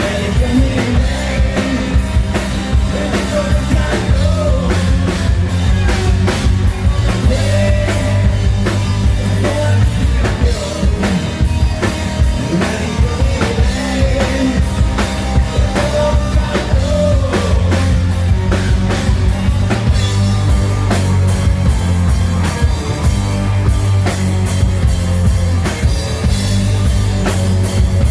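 Live hard rock band playing: loud drum kit, bass and guitars with a male lead singer, heard through a crowd's recording of the club's PA.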